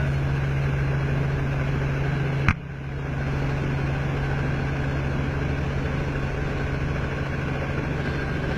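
A steady low engine drone, broken about two and a half seconds in by a single sharp knock.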